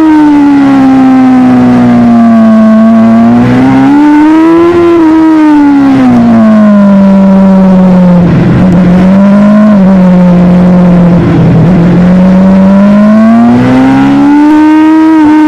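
Superbike engine running under way, its pitch sliding down, rising again about five seconds in, wavering briefly around the middle, then climbing once more near the end as the revs change.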